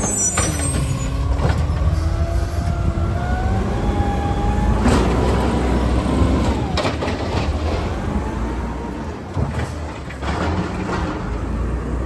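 Garbage truck engine running with a low rumble, with wavering squeals that glide up and down and several short, sharp noises.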